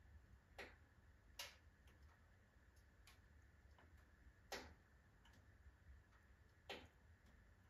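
Firewood burning in a wood stove, faintly crackling with irregular sharp pops, about half a dozen in the span and loudest near the end, over a low steady rumble.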